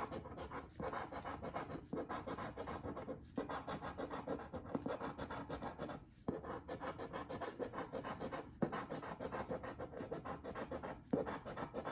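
Scratching the coating off a Texas Lottery Big Cash scratch-off ticket: runs of rapid rasping strokes, with short pauses between passes.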